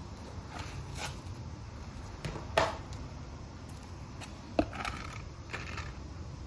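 Light knocks and clicks of things being handled, with two sharper clicks about two and a half and four and a half seconds in, over a steady low hum.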